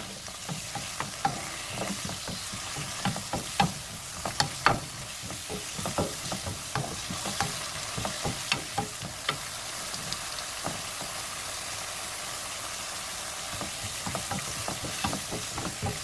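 Sliced burdock sizzling in a pan with olive oil and soy sauce, a steady hiss with frequent clicks and scrapes of a utensil stirring it. The stirring thins out for a few seconds past the middle, then picks up again near the end.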